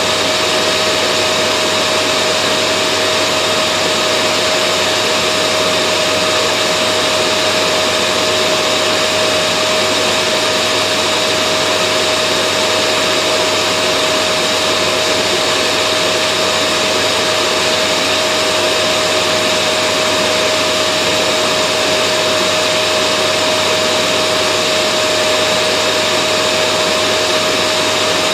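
A vacuum cleaner's motor running steadily without any change: an even rushing noise with a steady whine in it.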